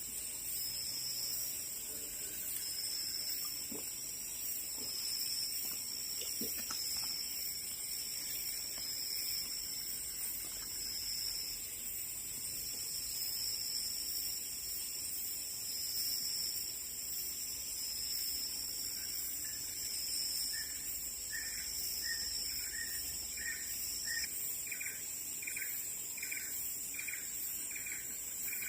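Tropical forest insect chorus: a steady high-pitched drone with a higher note pulsing about once a second. From about two-thirds of the way in comes a run of short repeated calls, about two a second.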